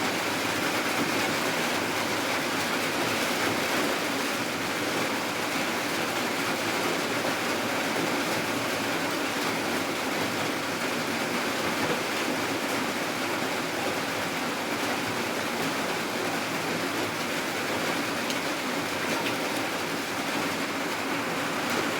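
Rain falling steadily, a constant even hiss with no breaks.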